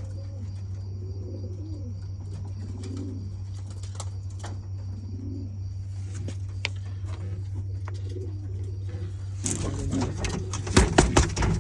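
Pigeon cooing repeatedly, low soft coos every second or two, over a steady low hum. Near the end a burst of sharp knocks and rustling is louder than the cooing.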